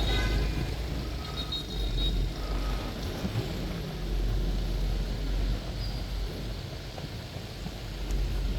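City traffic heard from a moving sightseeing bus: a steady low engine and road rumble with a broad hiss of tyres and street noise.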